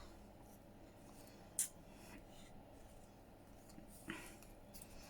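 Quiet handling of paper and craft materials on a work surface, with one sharp click about a second and a half in and a brief soft rustle near the end.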